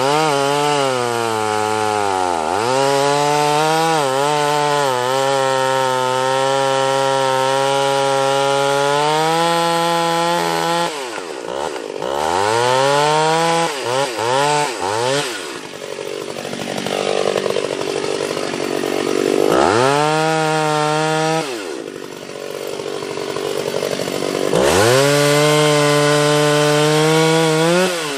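Two-stroke chainsaw held at high revs while cutting limbs off a felled sweet gum tree. Several times it drops to idle and revs back up, and in the middle it runs lower and rougher while it is in the cut under load.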